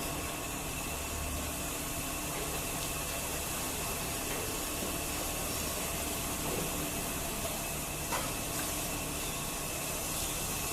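Steady machine hiss with a constant low hum and a few faint steady tones, and a light knock about eight seconds in.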